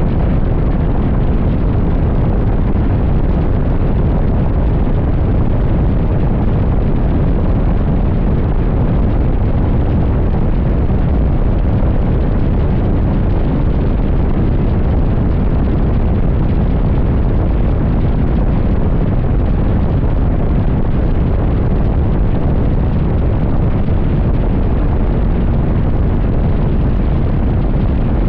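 Wind blasting the microphone of a motorcycle rider at highway speed, a steady heavy rumble that buries the engine and road noise beneath it.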